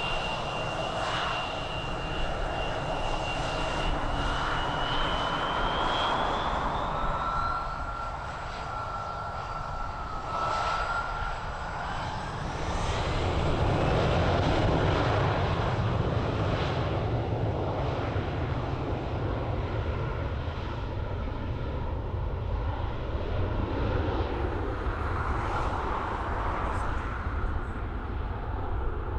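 Aircraft engines running steadily, with a high whine that rises in pitch a few seconds in and a second rising whine about ten seconds in. The low rumble grows stronger about halfway through.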